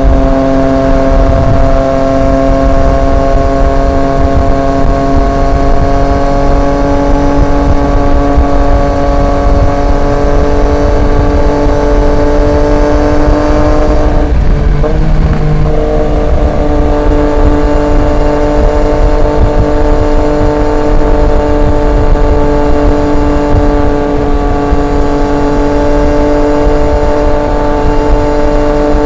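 Triumph Street Triple 765 RX's inline three-cylinder engine running through an SC Project S1 exhaust at steady cruising revs, its pitch sinking slowly, with a brief break about halfway before it settles into an even note again. A low rushing noise runs underneath.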